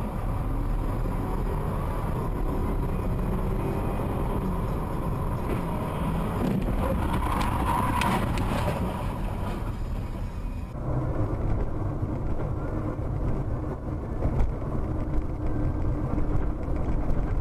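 Car driving, heard from inside through a dash camera: a steady low rumble of engine and road noise. The noise swells for a couple of seconds partway through. It changes abruptly about eleven seconds in to a different recording of similar driving noise.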